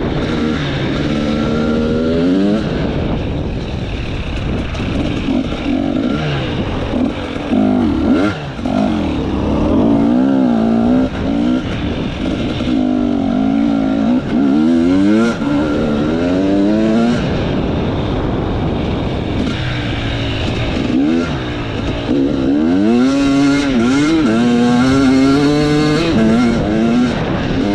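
Enduro motorcycle engine revving up and down continuously as the rider works the throttle off-road, its pitch rising and falling every second or two.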